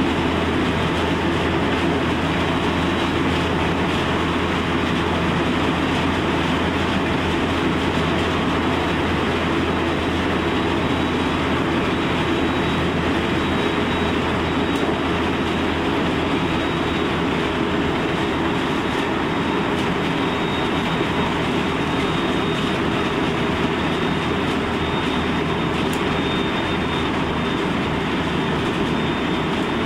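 Cabin noise inside a Special Rapid electric commuter train running steadily along the line: an even rumble of wheels on rail and running noise, with a faint high whine in the second half.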